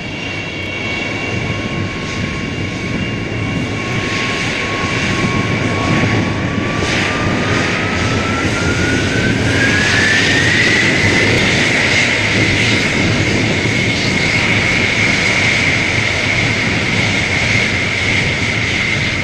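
Large jet aircraft engines running with a steady rush. A turbine whine rises in pitch from about six to eleven seconds in, then holds steady at the higher pitch.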